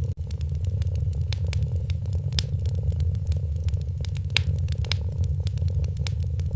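A domestic cat purring steadily and close, mixed with a wood fire crackling in a fireplace: irregular sharp pops and snaps scattered over the low purr, a few of them louder.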